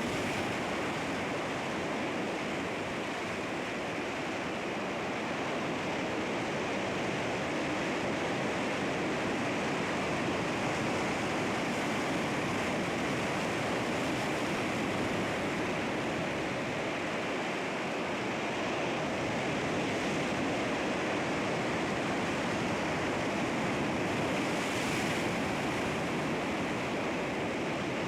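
Sea waves washing and breaking on rocks: a steady, continuous rush of surf with only gentle swells in level and a slightly brighter wash about 25 seconds in.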